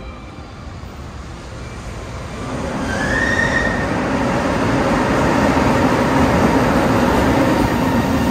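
Freight train running through the station: its rumble builds over the first three seconds, then holds loud and steady. A brief high squeal comes about three seconds in, and a lower steady squeal from the wheels or brakes carries on through the rest.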